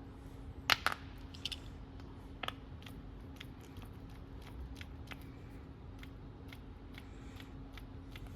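A few sharp metallic clicks and clinks of small parts or tools being handled, two loud ones close together about a second in, then scattered faint ticks, over a steady low hum.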